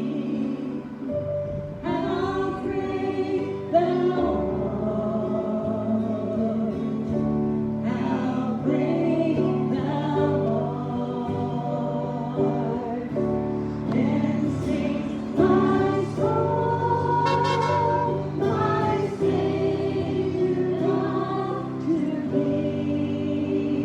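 Congregation singing a gospel hymn together with instrumental accompaniment.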